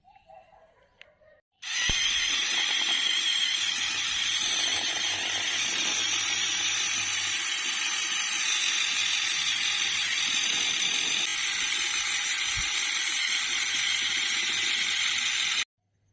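RC model tractor's small electric motor and gearbox running with a steady, high-pitched mechanical whine and rattle. It starts suddenly about two seconds in and cuts off abruptly just before the end.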